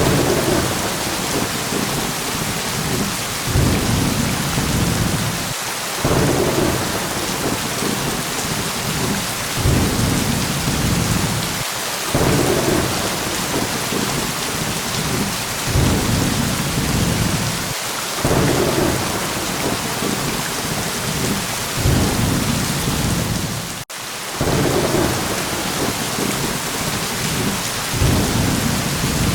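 Thunderstorm: steady rain hiss with low rolling thunder rumbles that swell again every few seconds. The sound drops out for a split second about 24 seconds in.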